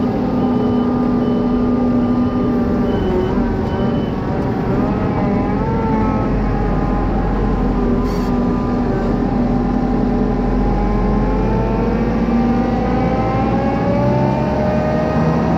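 Heavy farm machinery engine running under load, its pitch wavering and then climbing near the end. Reversing beeps sound about twice a second for the first few seconds.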